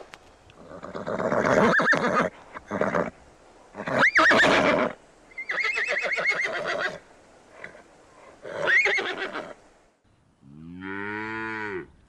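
Horses whinnying, a series of high, quavering neighs. Near the end, one long cow moo.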